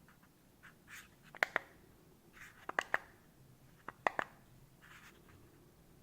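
Sharp clicks, mostly in close pairs, three pairs over a few seconds, with soft short rustles between them.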